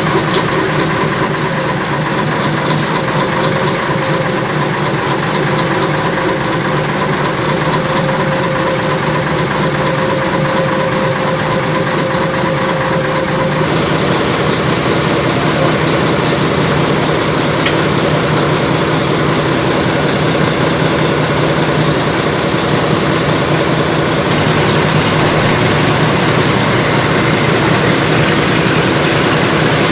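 Fowler diesel shunter's engine running steadily, likely at idle, with its note shifting about fourteen seconds in.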